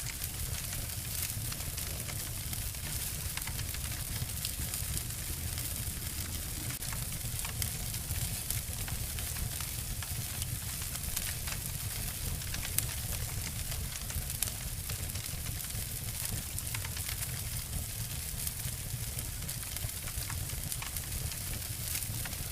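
Two wood fires crackling and snapping, layered together: a dense patter of small crackles over a steady low rumble, with one sharper snap about thirteen seconds in.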